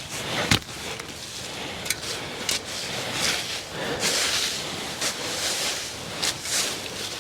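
Dry leaves rustling in repeated swishes as they are spread over a garden bed, with a single sharp knock about half a second in.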